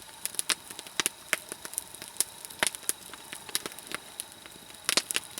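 Nodya log fire crackling: many sharp, irregular pops and snaps from the burning logs, with a brief flurry of louder pops near the end.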